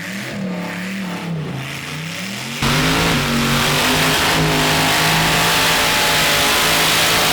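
Supercharged LS V8 revving up and down, then about two and a half seconds in the sound jumps abruptly to a loud, steady high-rpm run with a dense rushing noise over it, the engine held flat out in a burnout with the tires spinning.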